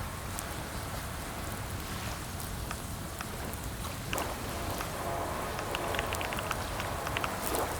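Steady rain-like hiss with scattered, sparse clicks of keyboard typing.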